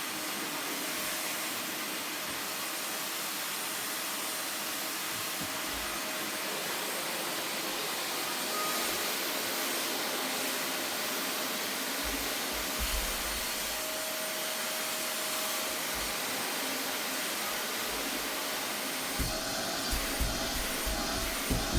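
Vacuum cleaner running steadily, sucking dust from a sofa's upholstery, with a faint steady whine in its noise. Near the end a quick run of low knocks and bumps joins it as the nozzle works over the sofa.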